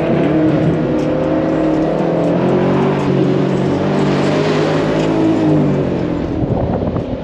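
Chevrolet Camaro SS's V8 running loud through a muffler-deleted exhaust while driving, its pitch rising and falling with the throttle.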